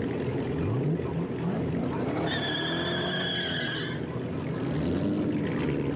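Muscle car engines running and revving in rising and falling sweeps, with a high tire squeal lasting a little under two seconds about two seconds in.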